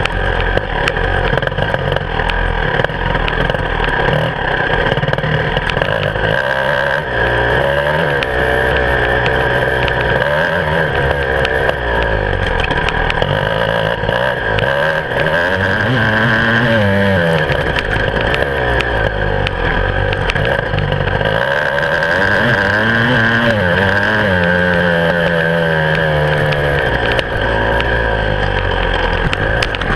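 Beta 300 RR two-stroke enduro motorcycle engine heard close up from the handlebars, revving up and down repeatedly as it is ridden hard along a rough woodland trail. Frequent knocks and rattles come from the bike over bumps.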